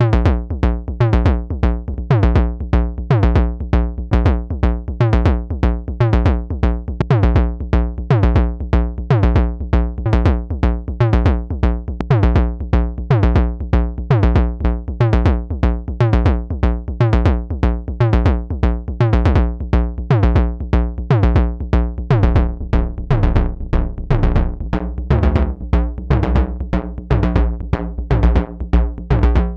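Semi-modular analog percussion synthesizer playing a sequenced drum pattern: a fast, even run of hits, many with a quickly falling pitch sweep, over a steady low bass tone.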